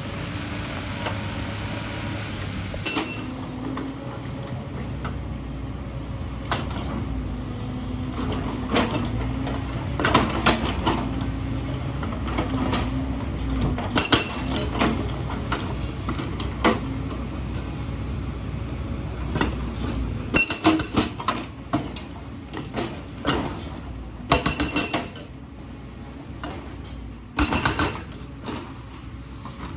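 Excavator's diesel engine running steadily under hydraulic load, its note wavering, with frequent sharp metallic clanks and clinks of the bucket and rock. The clanks come thick and fast in the second half.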